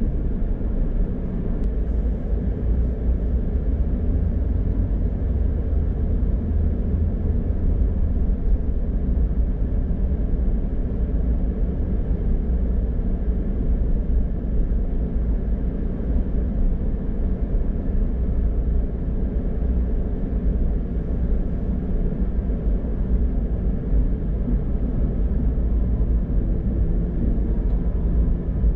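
Steady low rumble of a car driving on the highway: tyre and engine noise with no breaks or changes.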